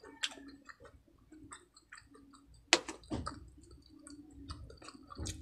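Close-miked chewing of pork belly adobo, with many small wet mouth clicks and smacks and one sharper click a little under three seconds in.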